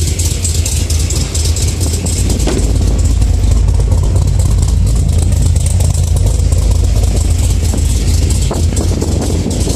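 Engine of a 2011 Camaro-based custom Firebird Trans Am idling steadily with a deep, even low rumble.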